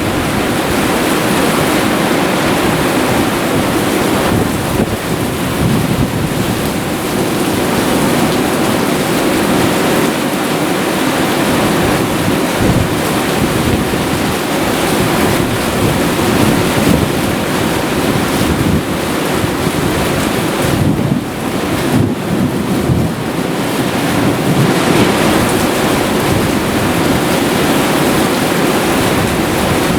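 Heavy thunderstorm downpour: loud, steady rain noise, with wind gusting on the microphone.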